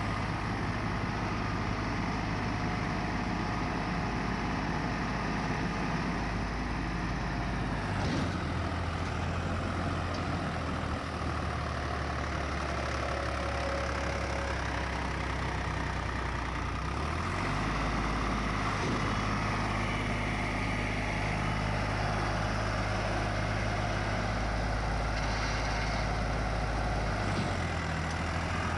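Swaraj 855 tractor's three-cylinder diesel engine running steadily, a low drone whose pitch shifts a few times: about a third of the way in, just past halfway, and near the end.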